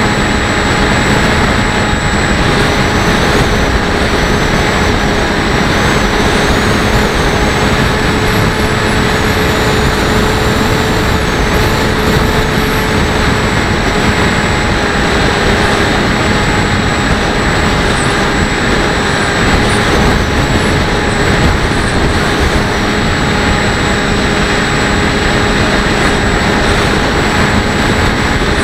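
Wind buffeting the onboard camera of a Bixler 1.1 RC plane in flight, under the steady whine of its electric motor and propeller holding an even pitch.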